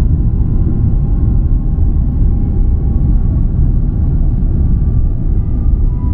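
Airbus A350-900's Rolls-Royce Trent XWB engines at takeoff thrust, heard from the passenger cabin as a loud, steady rumble with faint steady whining tones above it.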